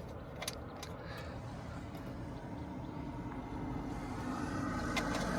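A motor vehicle approaching, its engine and road noise growing steadily louder through the second half.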